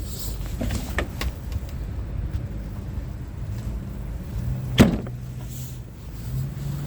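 A few light clicks, then one sharp knock near five seconds, like a truck cab door shutting, over a low rumble and a steady low hum.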